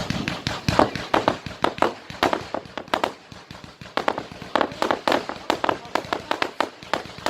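Fireworks going off in rapid succession, several sharp bangs a second, with a brief thinning a little past the middle.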